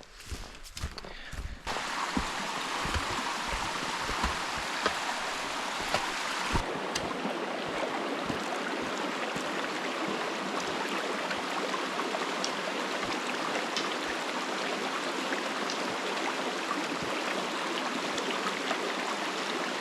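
Flowing stream, a steady rush of water that comes in about two seconds in and changes character slightly around six and a half seconds. Before it there are a few soft knocks.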